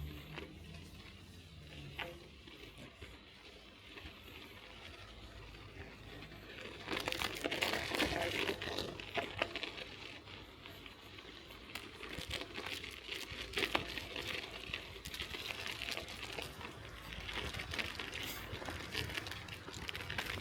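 Bicycle tyres crunching and crackling over snow, fainter for the first few seconds and then louder.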